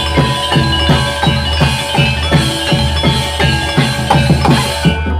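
Javanese gamelan music for a barong performance, played loud through a sound system. Metallophones ring over a drum struck about three times a second, each low stroke falling in pitch.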